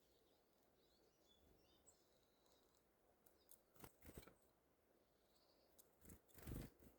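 Near silence in a winter forest: faint high calls of small birds, and a few soft sharp clicks and taps a little before halfway and again near the end.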